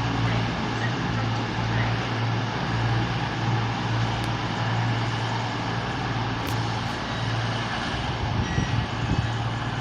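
Class 221 Super Voyager diesel train's underfloor engines running with a steady low hum.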